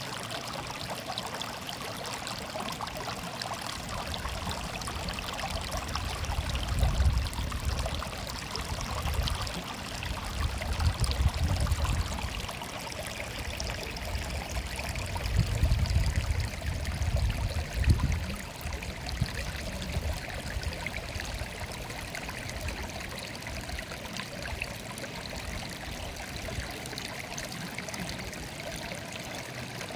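Stream water murmuring steadily, with a low rumble that swells twice in the middle.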